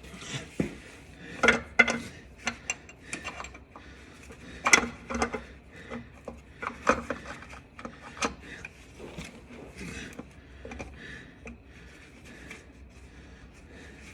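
Irregular metallic clinks, clanks and scraping of hand tools and bolts being handled while a car starter is fitted into place, with a few sharper clanks early on and again a third of the way through.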